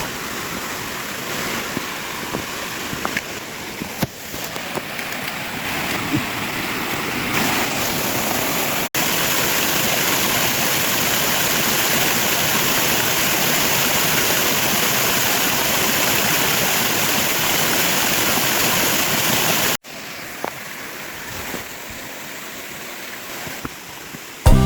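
Mountain stream rushing over small waterfalls in a steady hiss. About a third of the way in it jumps suddenly to a much louder, fuller roar close to falling water, then drops back to a quieter stream sound near the end.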